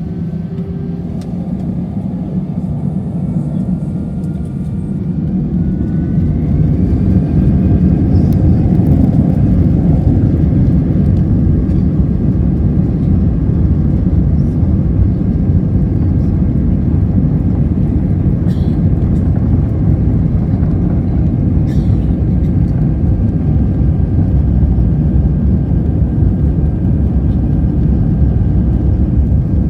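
Airliner engines spooling up, with a rising whine over the first several seconds, then a loud steady rumble: thrust building for the takeoff roll.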